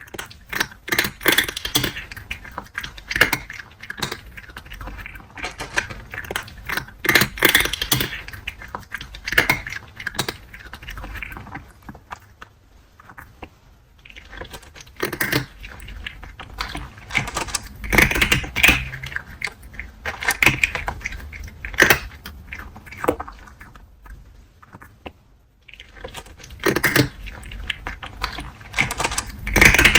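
Cat chewing crunchy dry food close to the microphone: runs of sharp crunches and clicks with a couple of short pauses.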